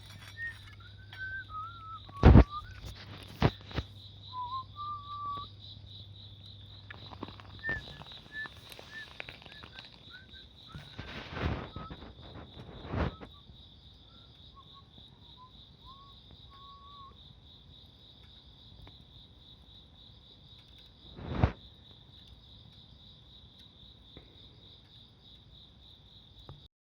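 Insects trilling steadily in a high, rapidly pulsing chorus, with short whistled calls now and then and a few sharp cracks, the loudest about two seconds in and another at about 21 seconds, such as wood popping in a bonfire.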